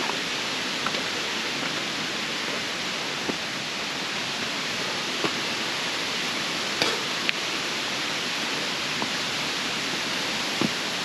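Steady rushing noise with a few sharp clicks scattered through it.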